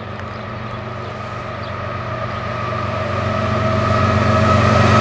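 Approaching diesel freight locomotive, its engine hum and steady whine growing louder.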